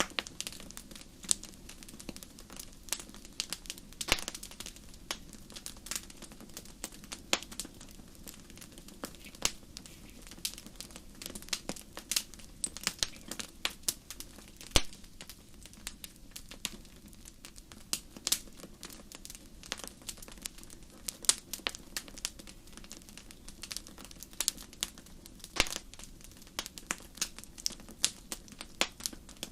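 Wood fire burning in a fireplace, crackling and popping with many sharp irregular snaps over a low steady hiss.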